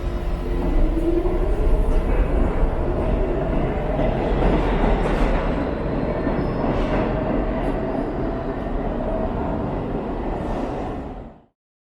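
New York City subway train running: a heavy rumble with a whine that rises about a second in and then holds steady. The sound cuts off suddenly near the end.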